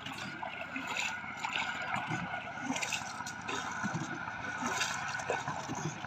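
River water gurgling and lapping against the hull of a small boat drifting in a strong current, with scattered small splashes.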